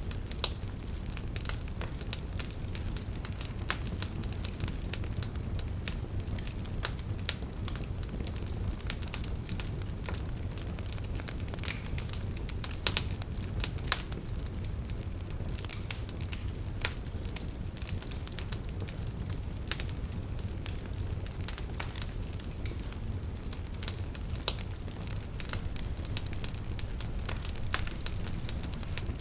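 Wood fire burning in a fireplace: a steady low rumble of flames with frequent small crackles and snaps of burning wood, and a few louder pops.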